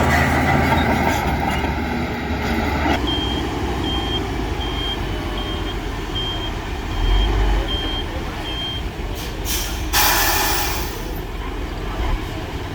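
Diesel dump truck running with its reversing alarm beeping about nine times at a steady pace. Near the end comes a sharp hiss of air brakes lasting about a second.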